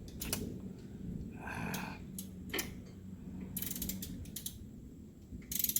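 Hand ratchet wrench clicking in several short bursts as the wheel bearing hub bolts are run in, over a steady low hum.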